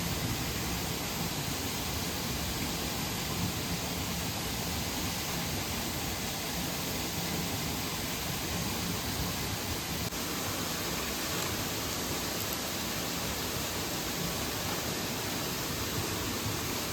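Steady rushing of a mountain stream and waterfall, an even hiss of falling water.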